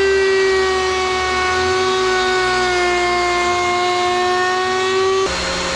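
DeWalt electric wood planer running with a loud, steady motor whine that dips slightly in pitch a few seconds in and comes back up. Near the end it changes abruptly to a quieter, lower steady hum.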